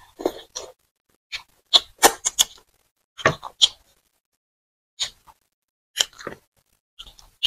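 Close-miked mouth sounds of eating soft food by hand: wet lip smacks and chewing clicks in short clusters, with silent gaps between them.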